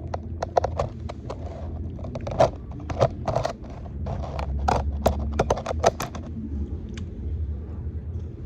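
Close-up eating sounds: crisp crunching and chewing of a fried chicken burger, a dense run of sharp clicks and crackles that thins out about six seconds in.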